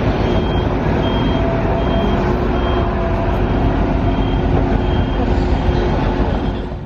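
Loud, steady rumbling noise with a short high-pitched warning beep repeating roughly every 0.7 seconds. The rumble drops off sharply near the end.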